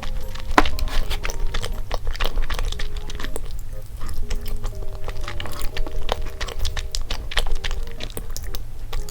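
Close-miked eating sounds, chewing with frequent short sharp clicks and smacks, over a light, simple background melody.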